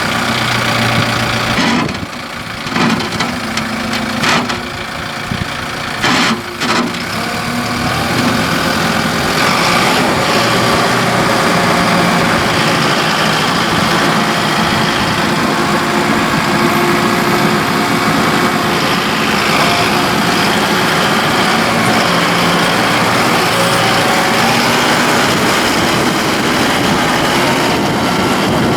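Kubota M5-111 tractor's four-cylinder turbo diesel engine running. A few knocks come in the first several seconds, then the engine sound grows louder and holds steady.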